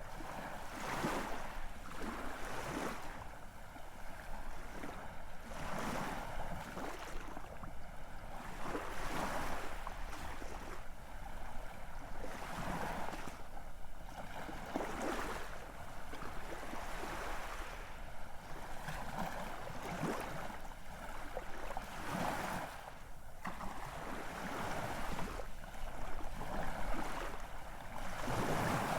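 Ocean waves breaking and washing on the shore, a steady rush that swells and falls back every few seconds.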